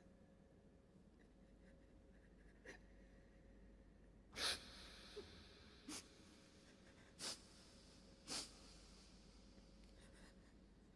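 Near silence broken by about five short, sharp breaths or sniffs close to the microphone, the loudest about halfway through.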